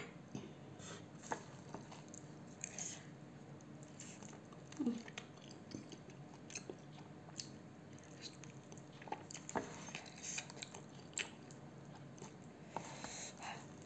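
Close-up chewing and eating sounds, with soft irregular mouth clicks and smacks as spicy noodles and chicken are eaten from chopsticks.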